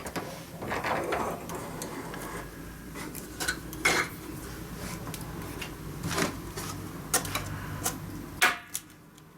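Irregular metallic clicks and clacks, about eight, from a small homemade bench shear and stainless steel wire being handled and set up for cutting, over a low steady hum that stops near the end.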